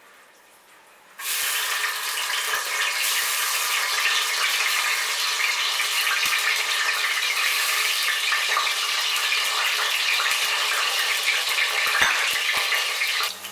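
Halved, par-boiled potatoes frying in hot mustard oil in a pan, a loud steady sizzle. It starts suddenly about a second in as the potatoes go into the oil and stops abruptly just before the end.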